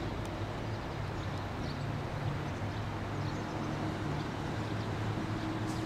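Delivery train carrying JR East 209-series cars approaching slowly, a steady low hum with a faint higher tone running over it. Small faint high chirps sound here and there.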